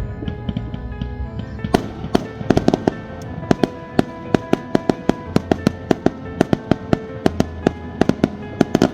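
Fireworks going off in a rapid run of sharp bangs and cracks, several a second, starting about two seconds in, with music playing throughout.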